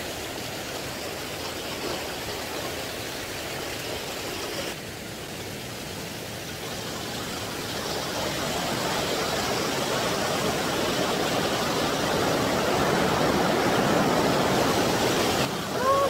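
Mountain valley stream rushing over rocks, a steady roar of water that grows louder through the second half.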